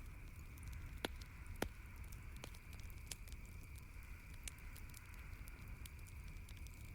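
Wood campfire crackling, with irregular sharp pops and snaps over a steady low hiss; the two loudest pops come about a second and a second and a half in.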